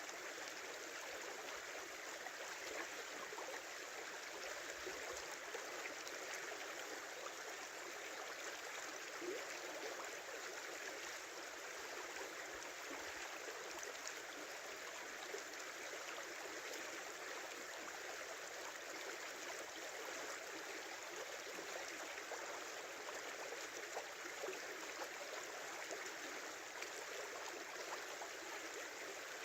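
Small stream flowing steadily over stones, a continuous rushing burble with fine trickling and gurgling.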